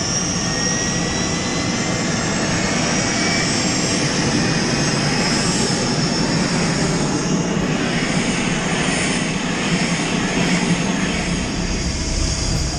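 Helicopter running steadily: a dense, even engine and rotor noise with a faint high whine on top.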